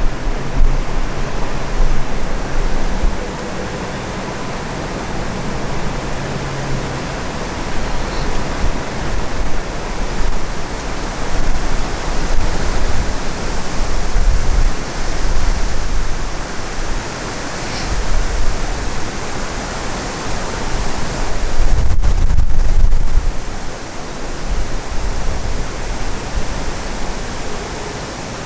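Strong wind gusting, rushing steadily and rumbling on the microphone in surges that rise and fall.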